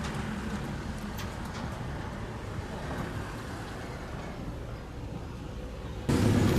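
Steady low rumble of an engine with outdoor background noise and a few faint ticks. About six seconds in the sound cuts suddenly to a louder, steady low engine hum.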